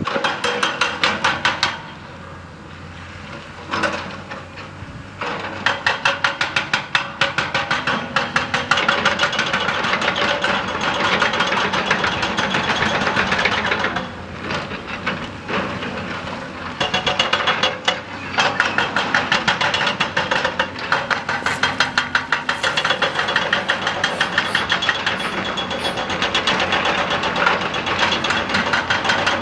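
Excavator-mounted hydraulic rock breaker hammering rock in rapid, steady blows, in several long bursts broken by short pauses. The machine's engine keeps running through the pauses.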